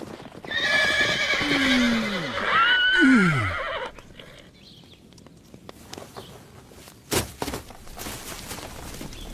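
A horse whinnying: one long, wavering call lasting about three seconds. It is followed by quieter clatter and a sharp knock near the end.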